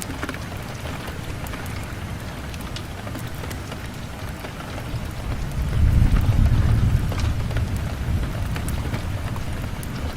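Steady rain on a window with scattered sharp ticks, and a low rumble of thunder that swells about five seconds in and slowly fades.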